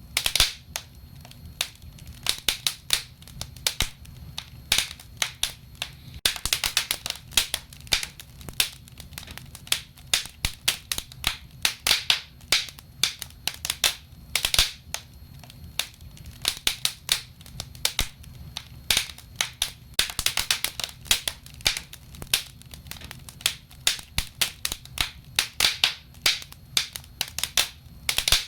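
Wood fire burning in a fireplace, crackling with many irregular sharp pops, some coming in quick clusters, over a low steady rumble.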